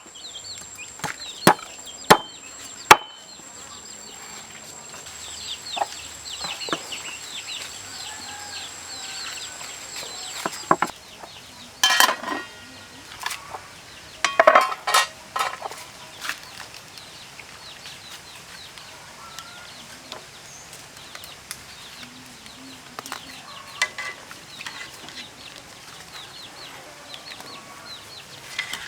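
Chickens clucking, with many quick high peeps in the first third and a few louder bursts of calls in the middle. A few sharp chopping knocks sound in the first three seconds.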